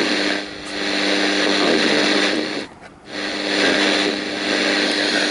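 Sony radio-cassette player's speaker putting out a steady hiss of radio noise with a low hum, which drops away twice, deeply the second time, and comes back as the newly replaced volume control is turned down and up: the control now works.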